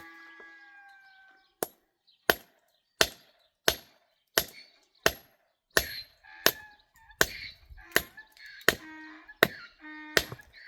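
A steady run of sharp chopping strikes, about three every two seconds and evenly paced, begun a second and a half in. A held pitched sound fades away at the start, and short pitched notes come in among the strikes near the end.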